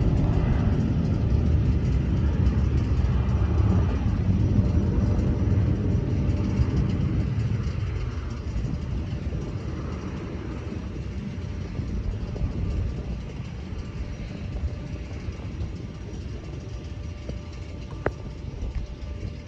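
Airplane engine rumble that fades slowly as the aircraft moves away, with a falling pitch glide about halfway through.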